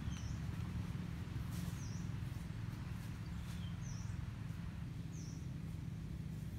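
A bird repeating a short, high chirp about every one and a half seconds, over a steady low hum.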